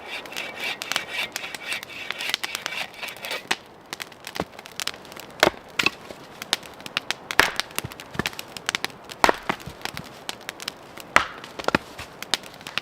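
Firewood being split: sharp wooden strikes about every two seconds, with smaller snaps and cracks between.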